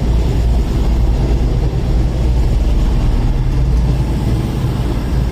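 Class 221 Super Voyager diesel-electric multiple units, their underfloor diesel engines running with a steady low drone as the train draws into the platform.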